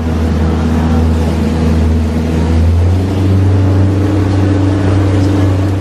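Motorboat engine running loud and steady, a low hum whose note shifts slightly about halfway through.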